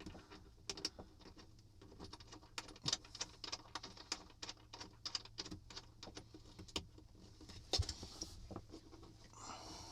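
Irregular light clicks, taps and clinks of small metal hardware or hand tools being handled, over a steady low hum.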